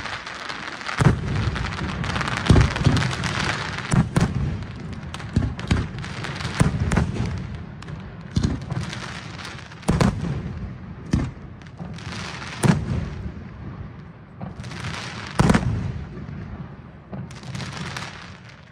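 Aerial firework shells bursting one after another with loud booms about every one to three seconds, with crackling stars filling the first few seconds and the bangs growing sparser toward the end.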